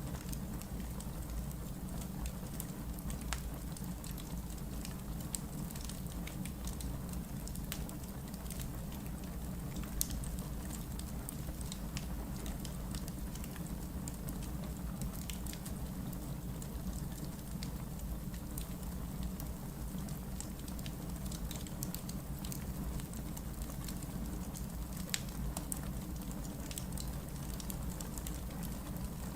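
Wood logs burning in a fireplace: a steady low rumble and hiss of the flames with scattered sharp crackles and pops, one louder pop about ten seconds in.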